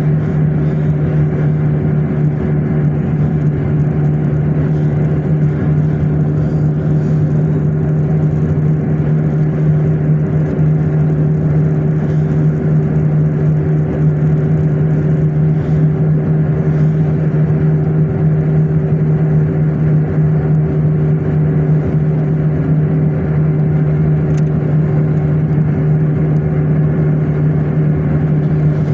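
Car driving at a steady speed: a constant engine and road-noise drone that holds one pitch throughout, with no revving or gear changes.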